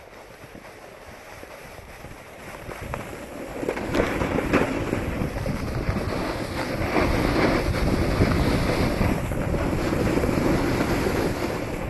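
Wind buffeting the microphone and edges scraping over packed snow during a downhill ski-slope run. It is quiet at first, then grows much louder about four seconds in as speed builds.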